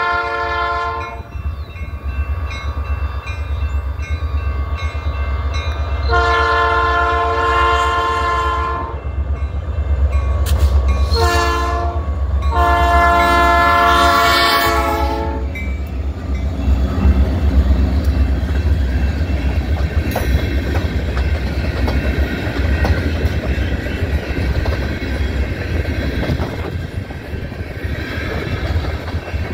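EMD SD40-series diesel locomotives pulling a freight train past, their engines rumbling low while the lead unit's air horn sounds the grade-crossing sequence: the tail of a long blast, then long, short, long. After about 16 seconds the horn stops and loaded tank cars roll by with a steady wheel clatter on the rails.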